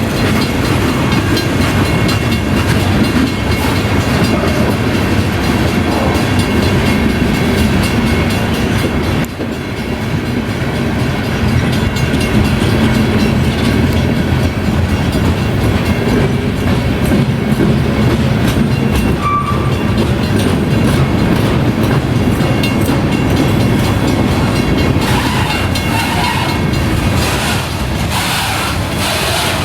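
Freight train rolling steadily past through a grade crossing: a continuous heavy rumble of steel wheels on the rails, dipping briefly about nine seconds in.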